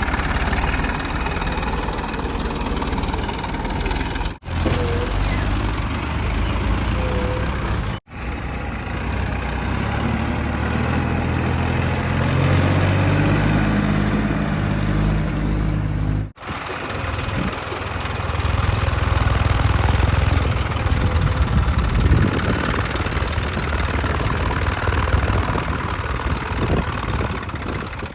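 Heavy diesel earth-moving machinery running and working, the engine note rising and falling under load. The sound breaks off abruptly three times, where short clips are cut together.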